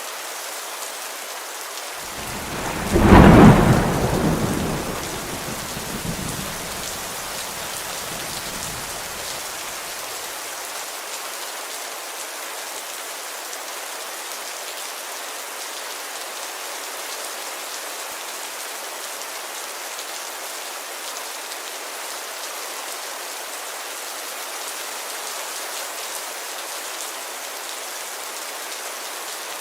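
Steady heavy rain falling on a window, an even hiss, with a sharp crack of thunder about three seconds in that rumbles away over the next several seconds.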